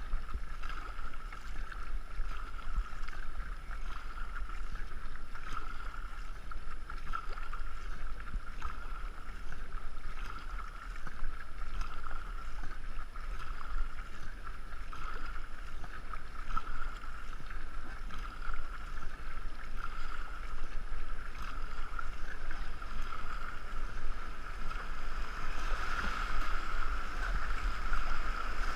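Racing canoe under way on a river: steady rush of water along the hull, with regular paddle strokes, heard through a GoPro camera mounted on the boat.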